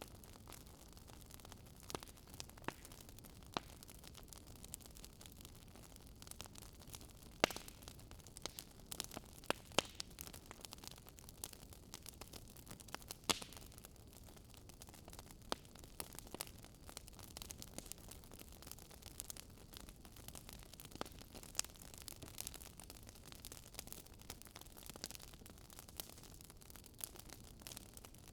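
Wood fire crackling: irregular sharp pops and snaps from the burning logs over a soft steady hiss.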